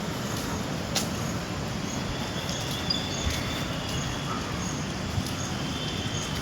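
Steady rushing of rain and wind on the microphone, with faint high repeated chirps and a single click about a second in.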